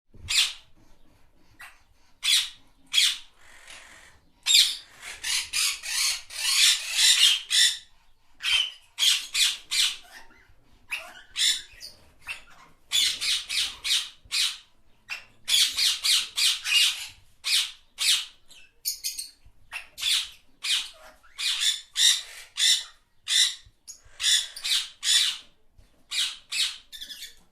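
Parrots squawking and screeching in quick runs of short, harsh calls, with brief pauses between bouts.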